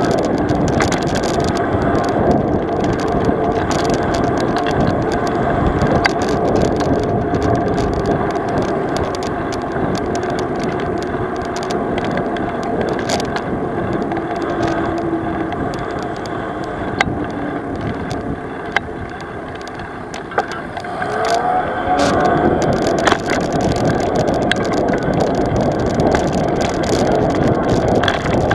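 A vehicle travelling over rough ground, its engine running steadily under scattered knocks and rattles. The engine quietens briefly, then revs up about three-quarters of the way through.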